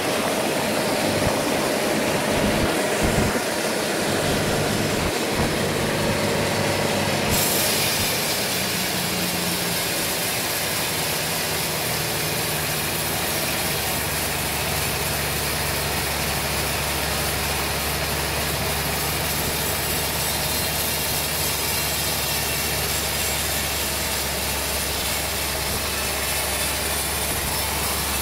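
Sawmill running and sawing through a large trembesi log, with the machine's motor humming steadily. About seven seconds in, the sound changes abruptly to a steadier running with a strong hiss.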